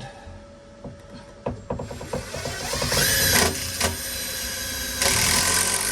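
Power drill driving a self-tapping sheet metal screw through a patch panel into a vehicle floorpan, with a few ticks at first. The motor then whines in two runs: one building up and stopping about three and a half seconds in, and another near the end.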